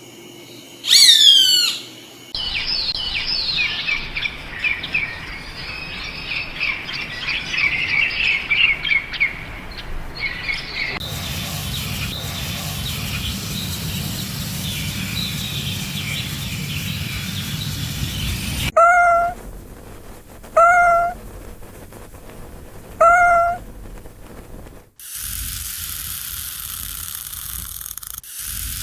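A run of separate animal and bird sounds: a loud falling call about a second in, then birds chirping and singing, then three loud, short pitched calls a second or two apart near the end.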